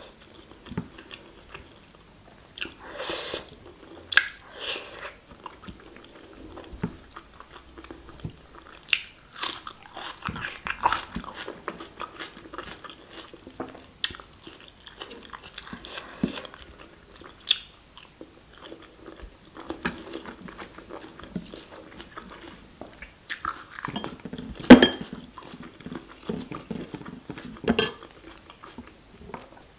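Close-miked eating: a person chewing mouthfuls of rice and mutton curry eaten by hand, with wet mouth sounds and irregular sharp clicks, the loudest of them well into the second half.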